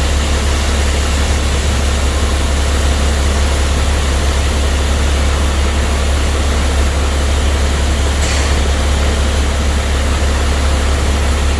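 Diesel semi-truck engine idling steadily, a deep low drone under a constant rushing noise, while the grain trailer's hopper empties into the elevator pit.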